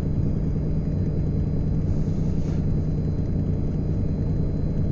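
Steady low rumble and drone of a ship's machinery heard on the bridge, even and unchanging throughout.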